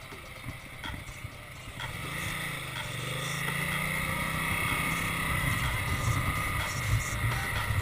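Ducati Multistrada motorcycle engine pulling under acceleration, its pitch rising about two seconds in and then holding steady, over a steady rush of wind and road noise.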